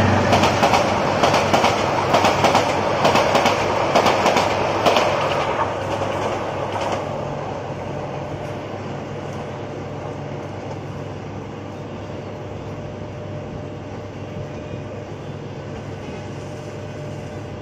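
Passenger train running through a station, its wheels clacking rapidly over the rail joints. The clacking is loud for the first six seconds or so, then fades as the train draws away, leaving a steady low rumble and hum.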